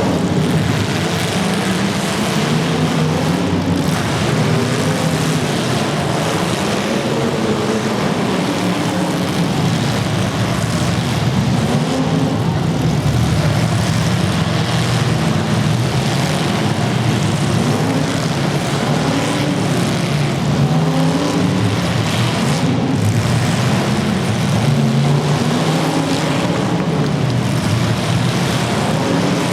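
Several demolition derby car engines running hard, their revs rising and falling over and over as the cars accelerate and back off, loud and unbroken.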